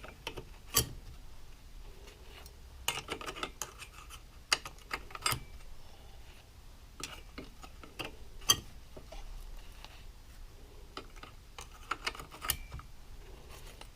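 Scattered light metallic clicks and clinks as Yamaha YFZ450R clutch plates, steel discs and fiber friction plates, are handled and set against one another. A few sharper taps stand out, about a second in and again about eight and a half seconds in, some with a short ring.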